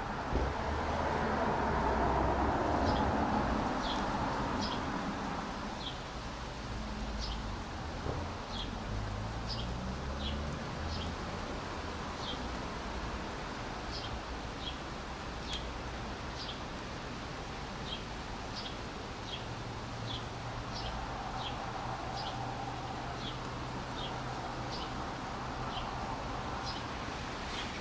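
A diesel multiple unit approaching slowly, its engines a low hum that steps in pitch, while a bird calls short high chirps over and over. A louder rushing noise fills the first few seconds.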